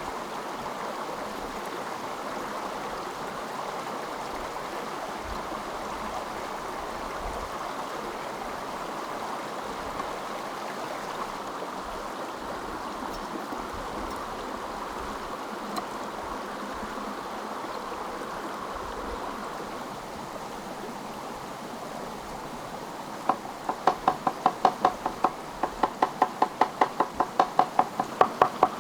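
Steady rushing of a flowing stream. About 23 seconds in, it is joined by rapid, even knocking, about five knocks a second, which is louder than the water.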